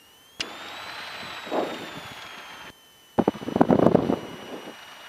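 Aircraft headset audio opening twice, each time with a click: two short stretches of noise that start and stop sharply, the first carrying a tone that rises and then falls, the second louder and full of rapid garbled pulses, typical of a radio or intercom transmission.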